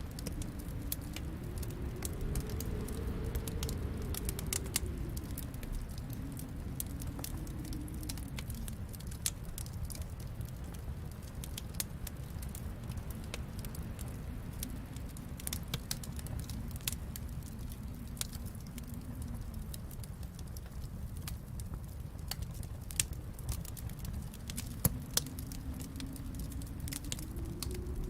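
Wood fire crackling in a fireplace, with irregular pops and snaps scattered throughout, a few sharper pops in the last few seconds. Underneath runs a low rumble that slowly swells and sinks in pitch.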